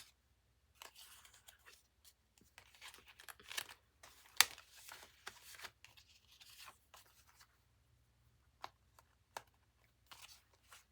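Paper and card pieces of a handmade journal being handled: soft rustling and scattered light taps, with one sharper tap about four and a half seconds in.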